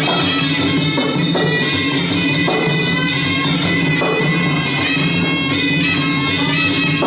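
Traditional Kun Khmer ring music: a sralai reed oboe plays a continuous melody over steady hand drums.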